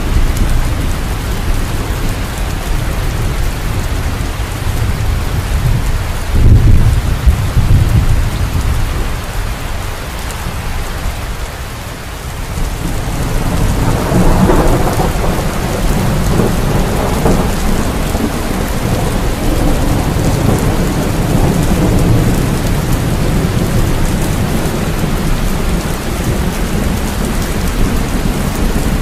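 Steady rain with thunder: a loud low thunderclap about six and a half seconds in, then a long rolling rumble that builds from about thirteen seconds in and carries on.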